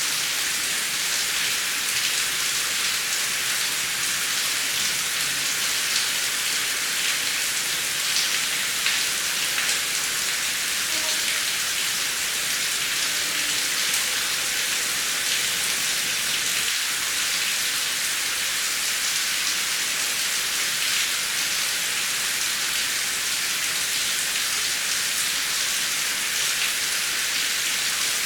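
Heavy rain falling in a steady hiss, with the fine patter of many individual drops and no thunder.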